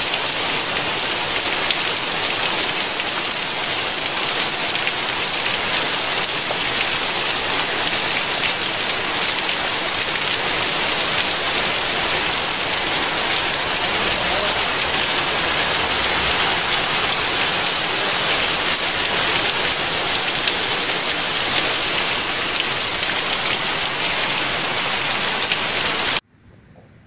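Heavy rain falling steadily on hard surfaces, with water spouting from a drainpipe. It is a dense, even hiss that cuts off suddenly near the end.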